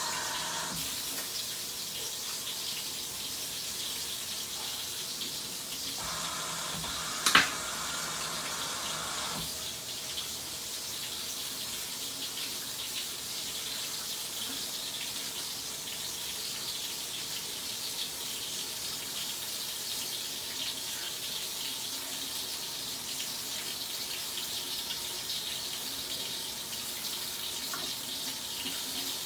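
Sink tap running steadily, water splashing as a freshly shaved head is rinsed under it, with one sharp knock about seven seconds in.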